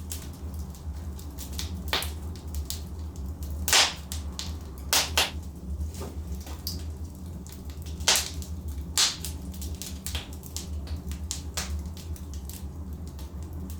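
Logs burning in a fireplace, crackling with irregular sharp pops, a few of them much louder, over a steady low rumble.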